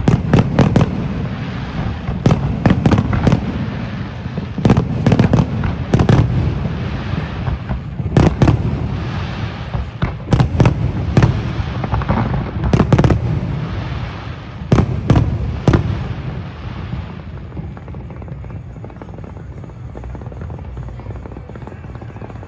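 Aerial fireworks bursting in quick clusters of sharp bangs, with a low rumbling echo between them. The bangs stop about two-thirds of the way through, leaving a steady low drone.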